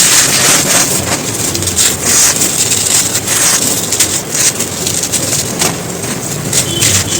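Dry, brittle chunks of earth being crumbled and crushed: a dense, continuous crackling and crunching with many sharp little snaps.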